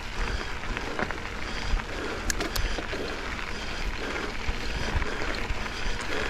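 Mountain bike climbing a dirt double track: tyres rolling and crunching over the ground with a steady rumble of wind on the microphone, and a couple of sharp ticks about two and a half seconds in.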